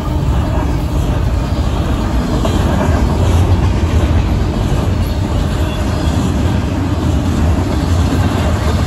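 Double-stack intermodal well cars of a Union Pacific freight train rolling past, a steady loud rumble of steel wheels on the rails.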